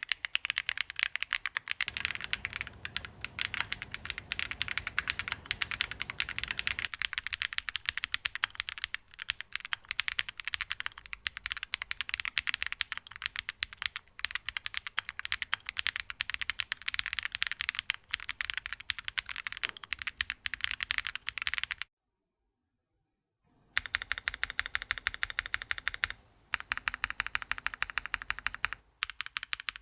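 Fast, continuous typing on an Angry Miao AFA mechanical keyboard with an FR4 plate and gasket mounting: a dense run of keystroke clacks. About two-thirds of the way through, the sound drops out completely for about a second and a half, then typing resumes.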